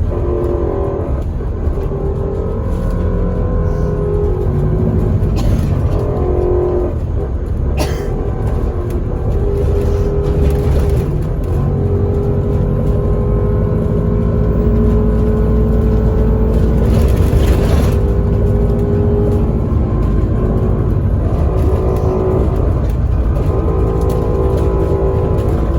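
Bus heard from inside while driving: a steady drone of engine and road noise, with the engine note shifting up and down several times. A sharp knock comes about a third of the way in, and a short hiss about two-thirds through.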